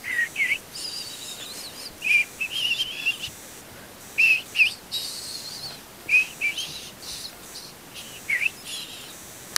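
Bird chirping: about a dozen short, high chirps and whistles, some rising in pitch, spaced unevenly.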